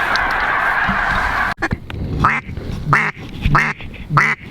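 A dense chorus of many ducks calling at once. After an abrupt cut about a second and a half in, it gives way to a run of loud, separate quacks, about one every two-thirds of a second.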